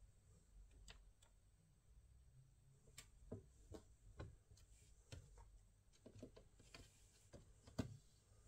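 Faint, irregular small clicks and light taps from handling laptop parts and tools, about a dozen of them, with the loudest near the end.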